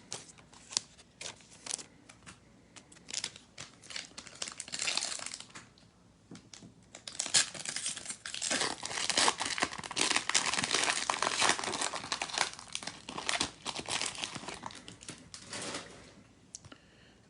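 A trading-card pack's wrapper being handled and torn open: scattered crackles at first, then a long stretch of dense crinkling and tearing from about seven seconds in, dying away near the end.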